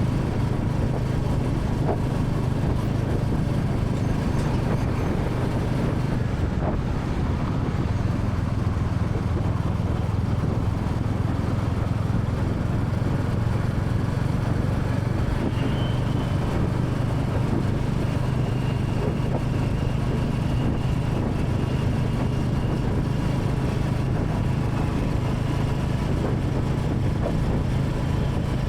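Royal Enfield Classic 350's single-cylinder engine running steadily as the motorcycle cruises at an even speed, with road noise around it.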